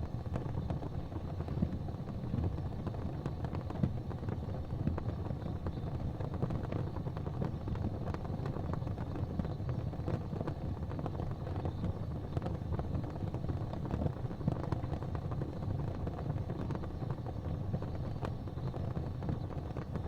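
Fireplace fire burning: a steady low rumble with frequent small crackles.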